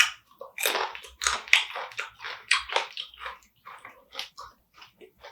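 Close-up biting, crunching and chewing while eating spicy marinated crab, with a dense run of crunches in the first three seconds, then scattered smaller clicks and mouth smacks.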